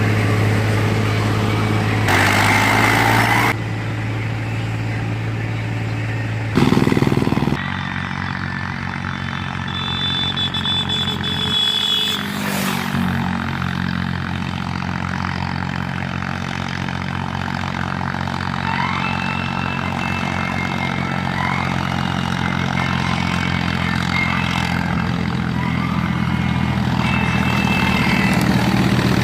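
Tractor diesel engine running steadily under load while hauling a heavily loaded sugarcane trolley. The engine note changes abruptly a couple of times early on, about four and about seven seconds in.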